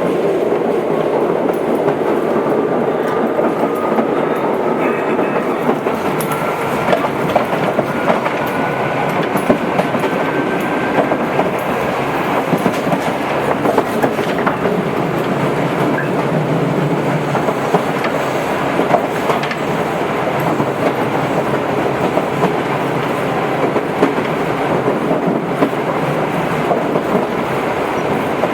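Tobu 8000-series electric train running, heard from on board: a steady rumble with rail-joint clicks, and a faint whine rising in pitch over the first ten seconds or so.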